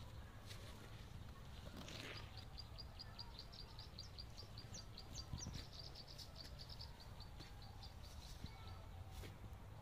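A small bird calling a rapid series of short, high chirps, about five a second, for several seconds, with a few higher rising notes in the middle. Underneath is a faint low steady rumble.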